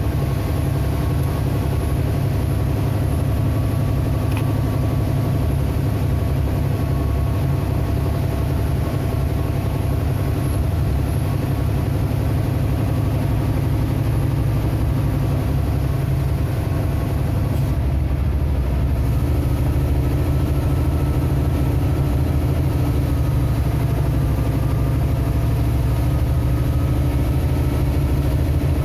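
Vehicle engine running steadily on a downhill mountain road. Its note shifts about two-thirds of the way through, and its pitch then creeps slowly up.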